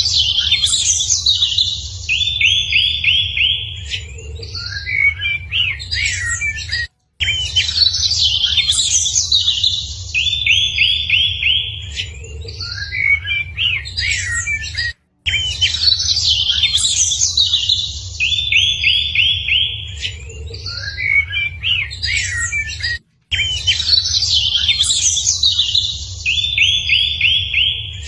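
Songbirds chirping and calling, including a fast trill of repeated notes, over a steady low rumble. The same passage of about eight seconds repeats over and over, with a brief dropout between repeats.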